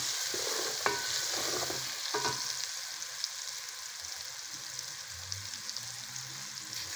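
Onions and spices frying in oil in an aluminium pressure-cooker pot, sizzling steadily and growing a little quieter. The ladle stirring them knocks against the pot with a short metallic ring a few times in the first couple of seconds.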